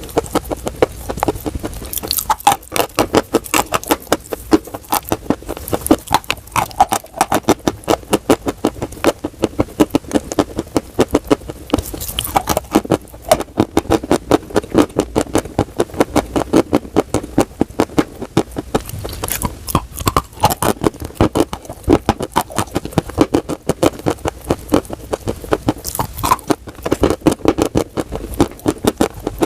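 Dry chalk being chewed close to the microphone: quick, crisp crunches, several a second, with no pause.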